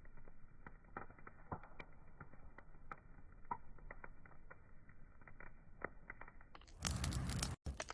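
Wood fire crackling, with irregular sharp pops and snaps over a soft hiss. Near the end a sudden loud rush of noise, nearly a second long and broken by a brief dropout, sounds over the fire.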